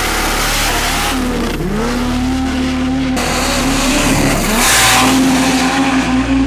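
Drag-racing diesel engine revving, loud, its pitch sweeping up about a second in and again near five seconds.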